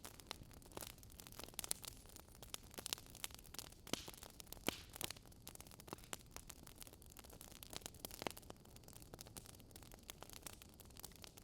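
Campfire burning with soft, irregular crackles and pops over a faint hiss.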